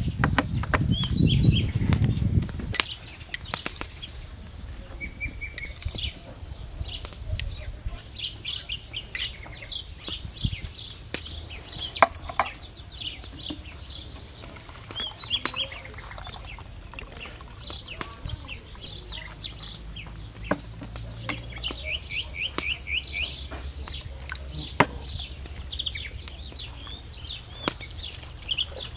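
Small birds chirping and trilling, over a steady high whine and scattered sharp clicks and knocks. A low rumble covers the first two seconds or so.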